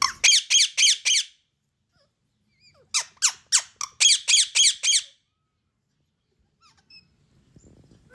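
Ringneck parrot squawking in two quick runs of shrill calls: about five in the first second, then about eight more from about three to five seconds in, followed by a few faint chirps.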